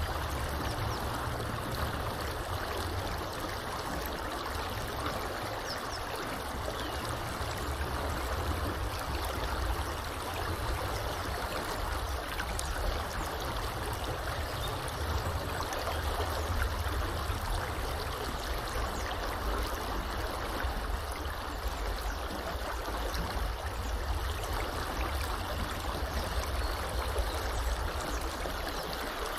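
Small river flowing steadily: an even rush of running water, with a low rumble underneath that swells and fades.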